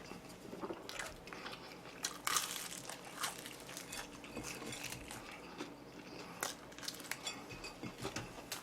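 Eating close to the microphone: scattered crunching bites and chewing of fried chicken, with small crinkles and clicks of plastic food containers.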